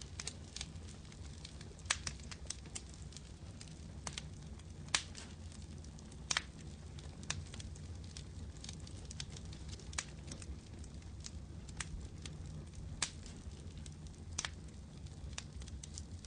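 Firewood burning in a campfire, crackling with irregular sharp pops, a few louder than the rest, over a steady low background noise.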